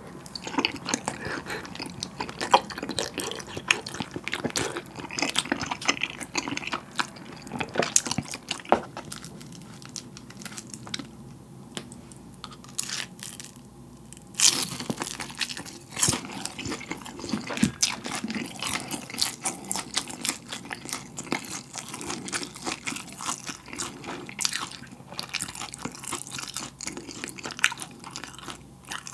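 Close-miked chewing of saucy tteokbokki rice cakes and fish cake, with wet, sticky mouth clicks and smacks. About halfway through comes a sharp bite into a deep-fried gimmari (seaweed roll), followed by crisp, crunchy chewing.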